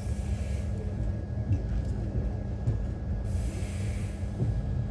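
Passenger train running past a station platform, heard from inside the coach: a steady low rumble with a constant hum, and a brief hiss about three seconds in.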